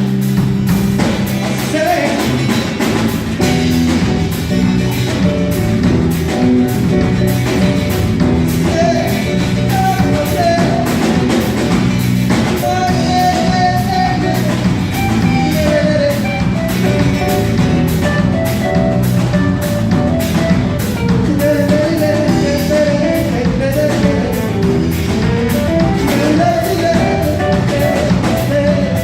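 Live band playing a reggae arrangement, with a drum kit keeping a steady beat over bass and guitar.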